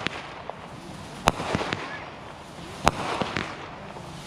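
Consumer fireworks going off: two loud, sharp bangs about a second and a half apart, with smaller pops and crackling around them.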